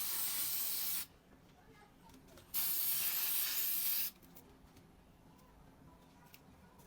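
Two short bursts of aerosol spray paint hissing from a can, the first about a second long and the second, a second or so later, about a second and a half long.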